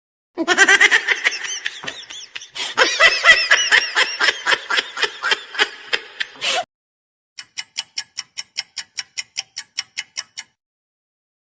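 Cartoon-style sound effects: a high, sped-up, chattering laugh-like effect for about six seconds, then after a short gap a quick run of short, evenly spaced pitched blips, about five a second, for about three seconds.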